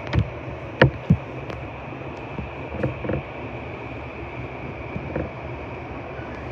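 Cabin noise of a JR Keihin-Tohoku line commuter train: a steady low rumble with a few sharp clacks about a second in and softer knocks later on.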